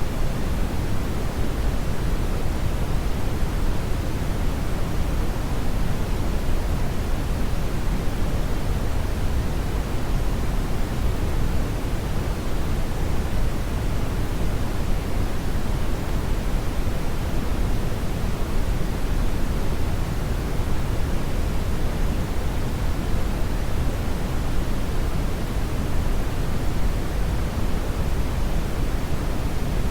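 Steady brown noise: a constant deep hiss, strongest in the bass and thinning toward the treble, with no change in level.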